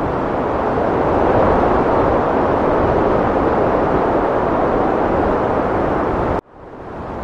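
Heavy wind blowing as a loud, even rush that swells slightly, then cuts off abruptly about six seconds in and fades back in where the loop restarts.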